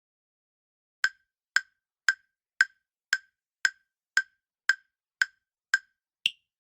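Quiz countdown timer sound effect: ten evenly spaced wood-block-like ticks, about two a second, then a final tick that is higher in pitch than the others.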